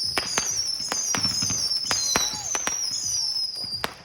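Firework whistling loudly with a warble, slowly falling in pitch, over scattered sharp pops and crackles. The whistle cuts off just before the end.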